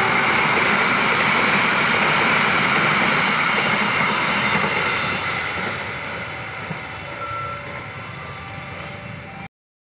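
A passenger train rolling past, its steady rushing rumble fading away over the last few seconds before cutting off abruptly.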